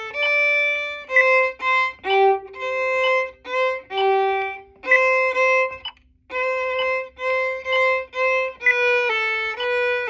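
Solo violin bowing a slow practice passage of mostly short, separate notes with small stops between them and a few longer held notes. There is a brief pause about six seconds in.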